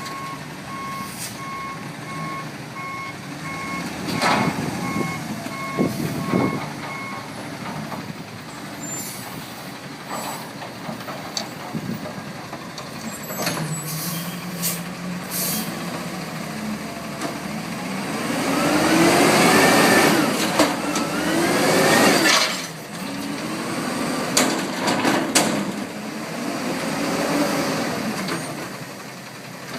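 Front-loader garbage truck working: its reversing alarm beeps for the first several seconds amid clanks and knocks. Past the middle the diesel engine revs up, rising in pitch in two sweeps over about four seconds, the loudest part, and ends in a sharp bang. It then settles back to running with more clatter.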